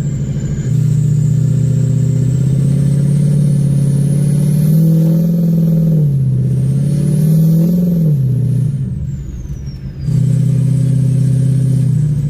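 Diesel pickup truck engine running under throttle while driving. Its pitch rises and falls twice in the middle, and a faint high whistle rises and falls with it. It drops quieter for a moment after about nine seconds, then comes back steady.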